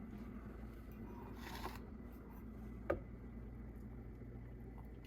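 Glass electric kettle being handled after being lifted off its base: a brief scraping swish about a second and a half in, then a single sharp click about three seconds in, over a low steady hum.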